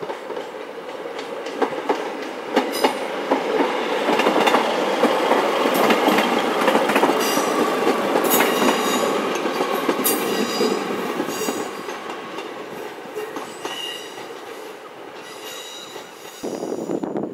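Transport for Wales diesel multiple unit passing: the engines run under a rolling rumble as the wheels click over rail joints, with a high-pitched wheel squeal. It is loudest in the middle and fades away as the train goes by.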